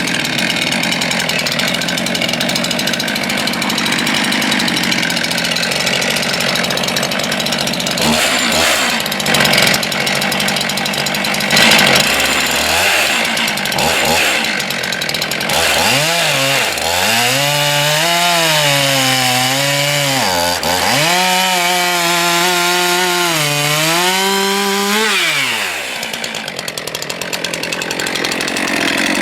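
STIHL MS 441 two-stroke chainsaw at full throttle cutting into wood: a dense, loud saw roar. About halfway through, the engine pitch starts to sag and climb again several times as the chain is loaded and freed in the cut. Near the end it settles at a slightly lower level.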